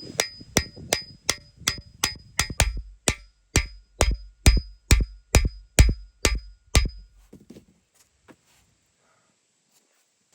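A hammer striking metal about twenty times at an even pace of just under three blows a second, each blow with a short metallic ring. The blows stop about seven seconds in.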